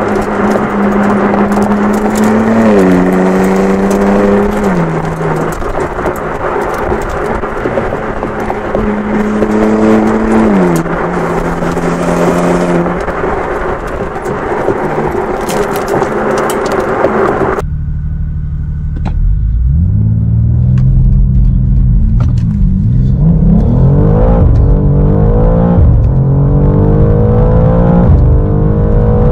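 2023 BMW M2's twin-turbo 3.0-litre inline-six driving, its note mostly steady under heavy wind and tyre noise, stepping in pitch at a few gear changes. About two-thirds of the way in the sound cuts to inside the cabin: the engine pulls hard through the gears, revs climbing and dropping back at each upshift.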